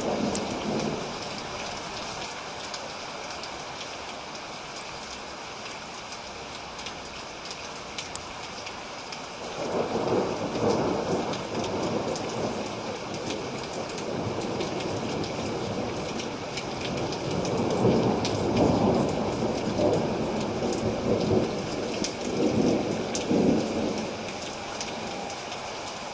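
Steady rain with rolling thunder: a rumble dies away at the start, then two long rumbles swell and fade, one about a third of the way in and another from just past the middle. A couple of sharp drip-like taps sound over the rain.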